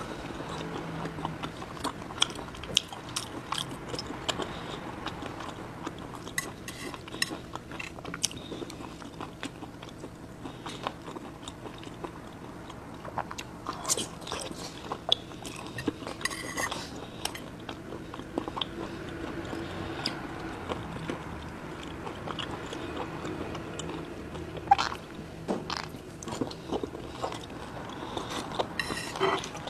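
Close-up chewing and biting of raw fish sashimi slices: wet mouth clicks and smacks, with a burst of sharper bites about halfway through and again near the end.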